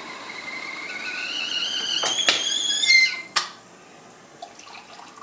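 Whistling kettle at the boil, its whistle starting thin and rising in pitch and loudness, then cutting off suddenly about three seconds in. A few sharp knocks come around the two-second mark and just after the whistle stops.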